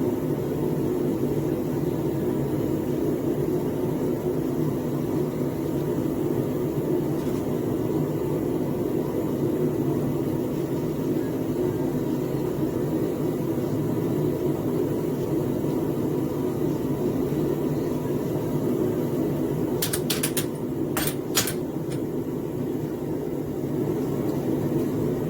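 Small gas forge's burner running steadily, with a few short sharp clicks near the end.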